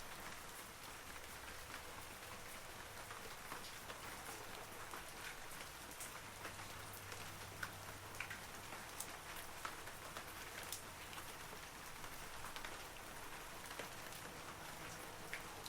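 Steady light rain falling on leaves, an even patter with scattered louder single drops ticking throughout.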